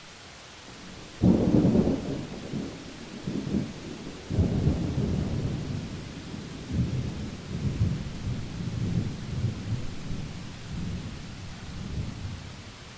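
A thunderclap breaks sharply about a second in, then rolls on as a low rumble in several swells for about ten seconds, fading near the end, over steady rain hiss.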